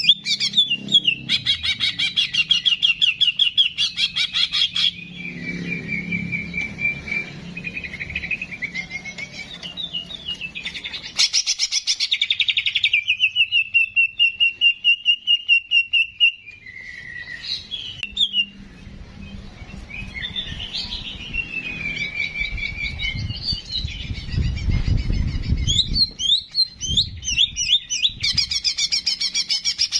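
Songbird singing a busy run of fast chattering trills and short whistled and rising notes, in phrases of a few seconds with brief pauses: a masteran song recording of the bird known as ki jenggot (cicak jenggot).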